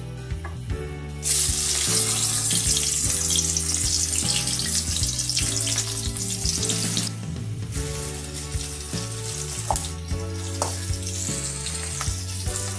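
Chopped onion tipped into hot mustard oil in a kadai, setting off a loud sizzle about a second in. The frying sizzle carries on, easing off past the middle, while a spatula stirs the onion near the end.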